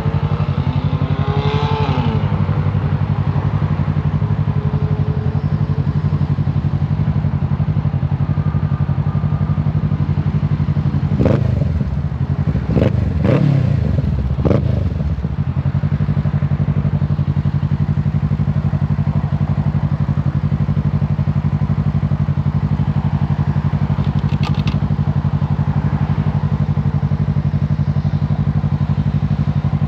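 Kawasaki Z650 parallel-twin engine running at steady revs. Near the middle come a few seconds of louder, changing engine noise with sharp knocks and falling pitch.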